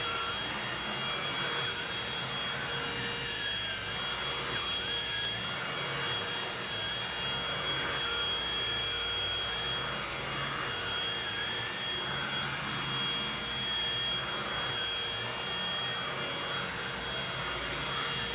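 Handheld vacuum cleaner running steadily with a high whine, its pitch wavering up and down as it is worked.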